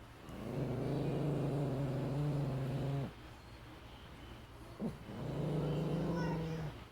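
Dog growling at a shadow that frightens it: two long, steady, low growls, the first about two and a half seconds, the second shorter, with a brief sharp sound from the dog between them.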